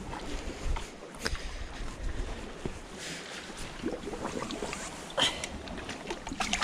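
Seawater splashing and sloshing with wind buffeting the microphone, broken by a few sharp knocks and clatters as a hooked squid is hauled out and grabbed.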